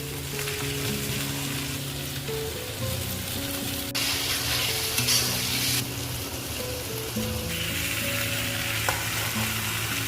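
Chicken frying and sizzling in a pan. The sizzle grows louder for a couple of seconds from about four seconds in. Background music with a slow stepping melody plays underneath.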